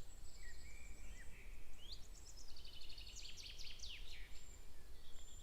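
Small songbirds singing: short high whistled notes and quick runs of chirps, busiest about halfway through, over a faint steady low outdoor background noise.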